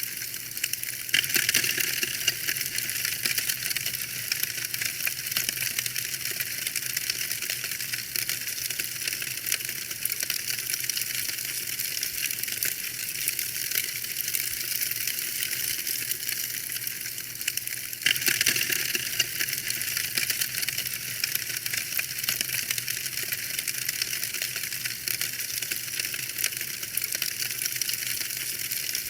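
Fireplace fire crackling: a dense, continuous patter of small sharp pops and snaps, slightly louder about a second in and again about eighteen seconds in.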